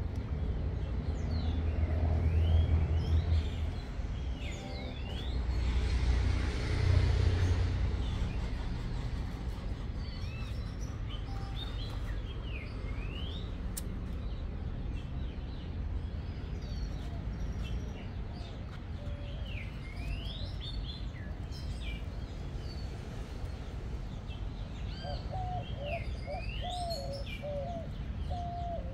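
Small birds chirping, with many short rising and falling chirps. A low rumble on the microphone twice in the first eight seconds is the loudest sound, and a run of lower repeated bird calls comes in near the end.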